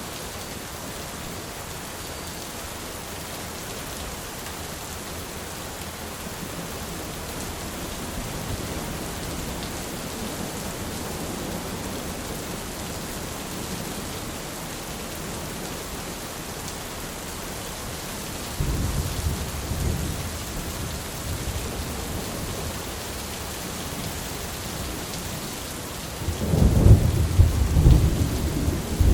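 Steady rain hissing, with rolls of thunder rumbling low twice: once about two-thirds of the way in and louder near the end.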